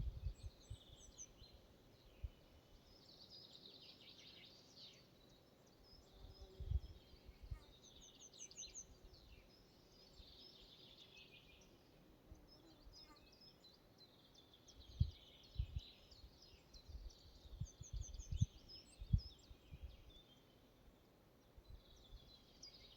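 Several small songbirds singing and calling, faint, with short chirps and trills throughout. Brief low rumbles come now and then, mostly in the second half.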